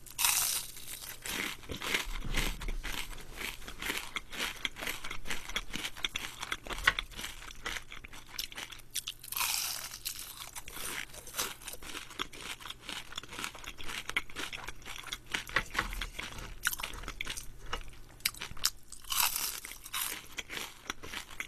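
Close-miked crunching and chewing of battered fried shrimp: a crisp bite right at the start, then steady crunchy chewing, with further loud crunching bites about nine and nineteen seconds in.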